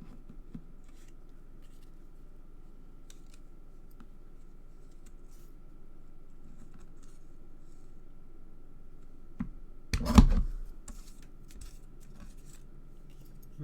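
Hand-held paper punch pressed through card stock: one sharp crunching snap about ten seconds in, with a smaller click just before it. Light clicks and rustles of paper being handled come before it.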